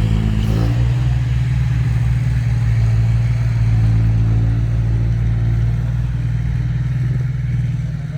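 Diesel dump truck engine running loud with a steady low drone, its pitch rising briefly about half a second in.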